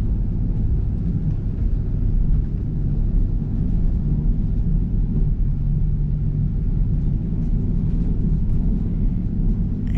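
Passenger train running, heard from inside the carriage: a steady low rumble with no change in pace.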